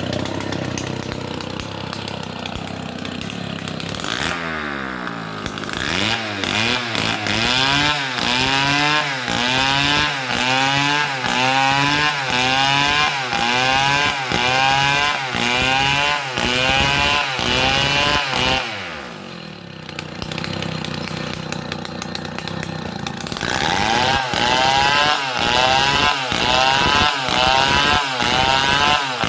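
Stihl MS 070 large two-stroke chainsaw cutting through a palm trunk, its engine pitch rising and falling about once a second as it loads and unloads in the cut. Near the middle the revs drop back to a lower, steadier running for a few seconds, then climb back into the same surging rhythm.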